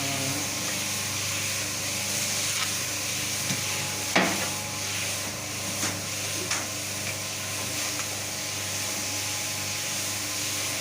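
Machinery running steadily during semi-dry floor screed work: a constant hum under a gritty, scraping hiss, with a few sharp knocks, the loudest about four seconds in.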